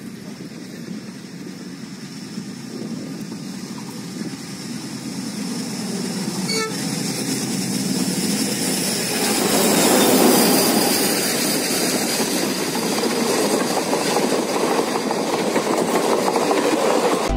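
Train approaching on the track and passing close by, its wheels running on the rails in a steady rumble that grows louder, loudest from about nine seconds in.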